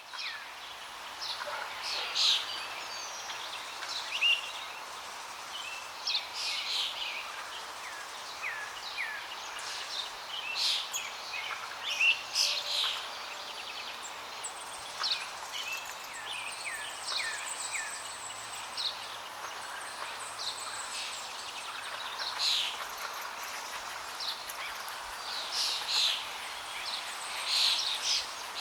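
Many small birds chirping and calling in quick, scattered notes over the steady rush of flowing water.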